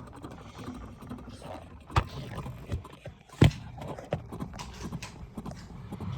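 Washing machine running, with a few irregular knocks: a sharp one about two seconds in and a louder one about three and a half seconds in.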